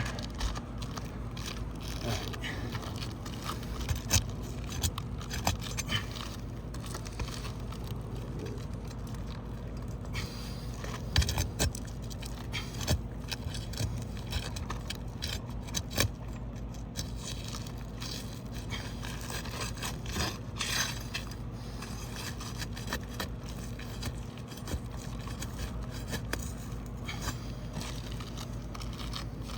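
Asphalt roof shingles being handled and pried: scattered scraping and crackling with occasional light knocks, over a steady low background noise.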